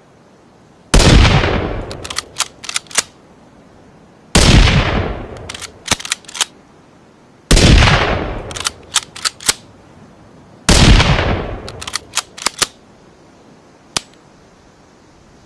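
Rifle-shot sound effect blended from a Ruger American bolt-action rifle and a rimfire rifle: four shots about three seconds apart, each with a fading tail. After each shot come three or four quick sharp clicks of the bolt being cycled.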